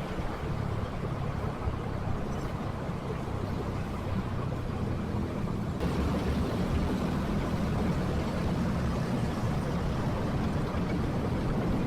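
Motorcycle engine running with road noise while riding through traffic; the noise steps up and gets louder about halfway through.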